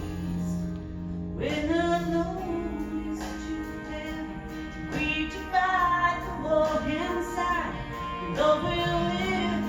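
Gospel song performed live: a woman sings held, sliding notes over steady instrumental accompaniment.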